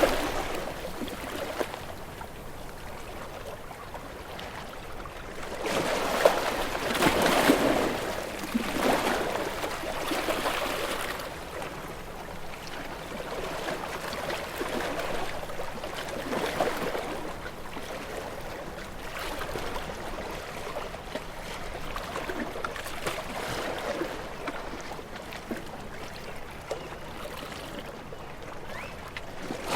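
Ocean waves washing in and draining back, a hiss of water that swells and fades every few seconds, the loudest wave about six to eight seconds in.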